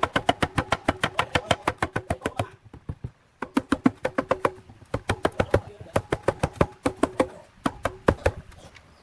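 Rapid hammer blows on metal, about seven a second, each with a short ringing tone. They come in runs broken by a pause about three seconds in and a brief one near the end.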